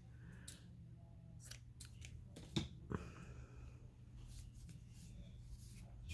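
Faint rustling and light clicks of paper and small craft tools being handled, with two sharper clicks a little over halfway through.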